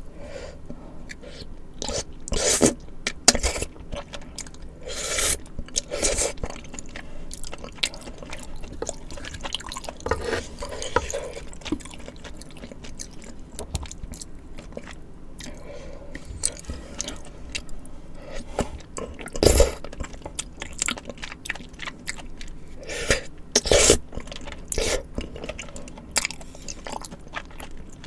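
Close-up eating sounds of spicy tteokbokki and fried snacks: wet chewing and mouth smacks of chewy rice cakes in sauce, with sharper crunchy bites, several loud ones scattered through.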